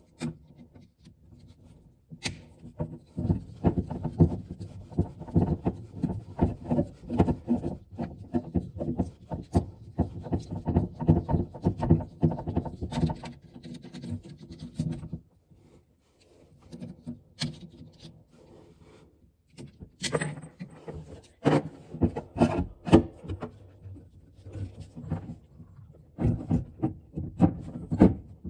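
Hand work against a hard surface: a run of quick repeated strokes for about twelve seconds, then a few sharp knocks and clicks, then the strokes start again near the end.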